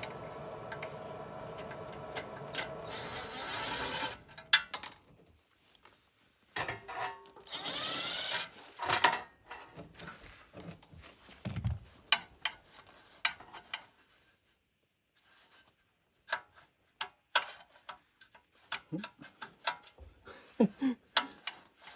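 A power tool working on a steel exhaust pipe runs steadily for about four seconds, then again briefly a few seconds later. Between and after the runs come scattered clicks and knocks of metal being handled and positioned.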